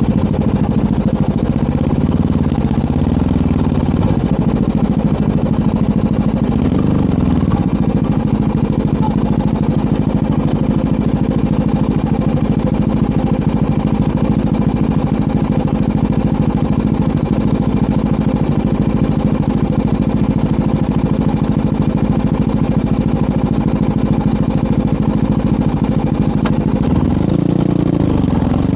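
Motorcycle engine running at a steady, unchanging pitch. Near the end the note shifts and begins to rise as the throttle opens.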